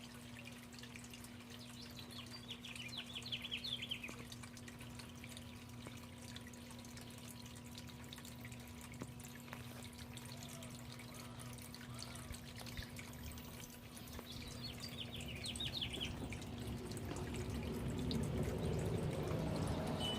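A songbird singing a short phrase of quick notes three times, about two seconds in, midway and near the end, over a steady low hum. A low rumble builds over the last few seconds.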